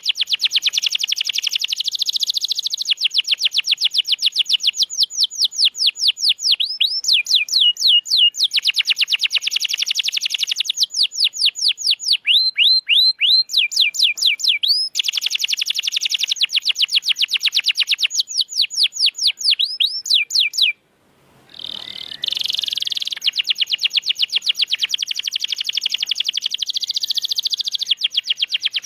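Domestic canary singing long, fast trills of rapidly repeated high notes, broken by runs of slower swooping notes. The song breaks off for about a second about two-thirds of the way through, then resumes with more fast trills.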